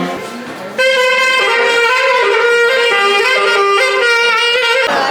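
Music: a horn melody of held notes, starting abruptly about a second in and cutting off suddenly near the end.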